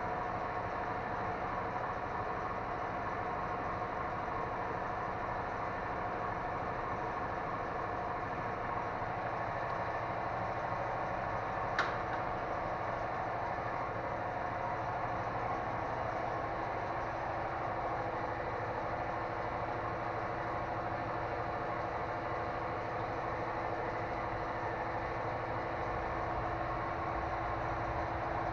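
A steady mechanical running hum, as of an idling engine, with one sharp click about twelve seconds in.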